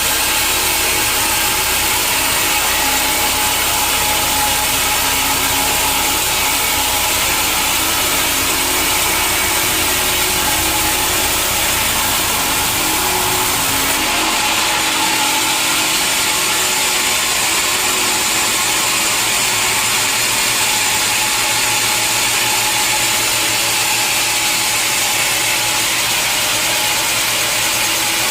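Sawmill machinery running with a saw cutting through wood, a steady loud noise with a set of held tones. About halfway through, the low rumble drops away while the cutting noise carries on.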